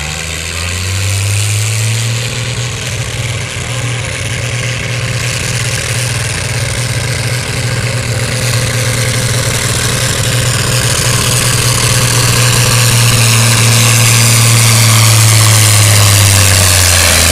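6,000 lb altered stock pulling tractor's engine at full throttle during a pull, its pitch rising in the first second and then holding steady as it grows gradually louder. Near the end the pitch drops as the revs come down.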